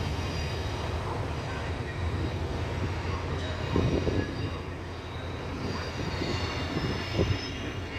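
Electric passenger train pulling away over the station tracks: a steady low rumble with faint wheel squeal, and two louder knocks about four and seven seconds in.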